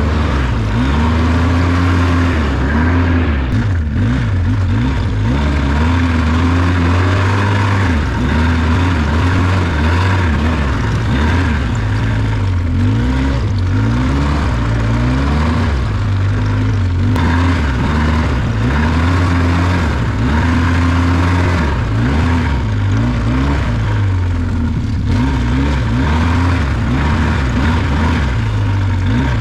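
ATV engine running and revving, its pitch rising and falling again and again.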